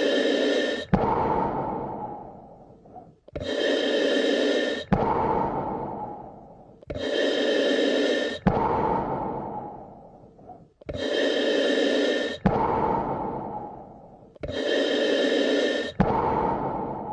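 Slow, deep human breathing repeating evenly about every three and a half seconds. Each breath has a steady, even part that stops sharply, followed by a longer part that fades away.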